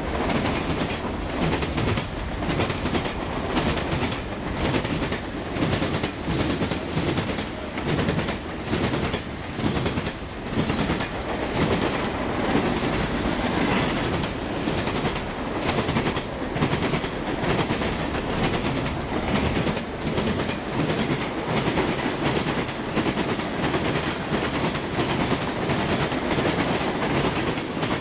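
Railroad cars rolling steadily past at speed, their wheels clattering rhythmically over the rail joints, with a few brief, faint high wheel squeals.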